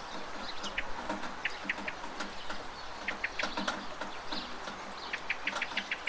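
Steady rain with water dripping and splashing from a roof gutter, while a bird calls in quick runs of short high notes, three times.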